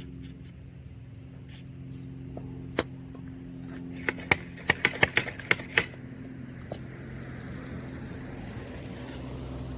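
A quick run of sharp clicks and knocks, about eight in two seconds, over a steady low hum.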